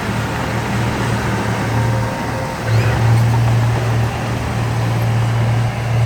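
Heavy diesel engine of earthmoving machinery running under load with a deep, steady drone that eases briefly and picks up again about three seconds in.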